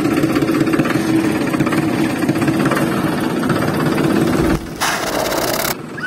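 Small petrol engine running fast and steady with a rattle. About four and a half seconds in, it cuts off and a brief hiss follows.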